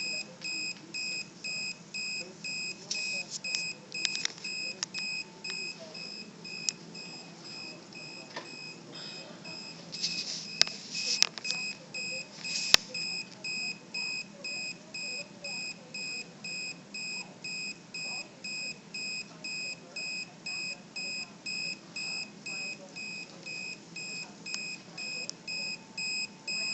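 Henrietta chicken egg cooker's electronic chirp alarm beeping about twice a second without a break, signalling that the hard-boiled eggs are done. A few sharp clicks and knocks sound in the middle.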